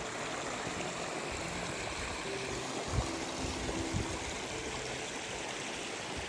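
River water running in a steady rush, with soft background music notes under it and two low thumps about a second apart in the middle.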